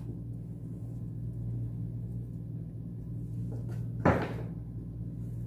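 A steady low hum with a single sharp knock about four seconds in.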